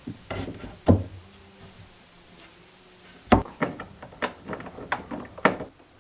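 Wooden knocks and clatter from hand work on wood: two sharp knocks about one second in and about three seconds in, then a quick run of lighter taps and clicks.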